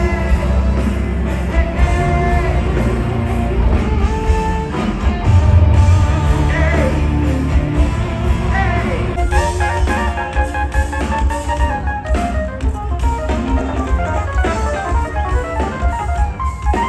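Band music with drum kit, guitar and a singing voice, played loud and without a break.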